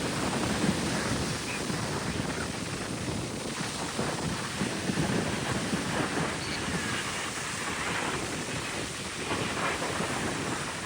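Steady rushing of wind buffeting the microphone mixed with surf breaking on the beach, with no aircraft clearly standing out.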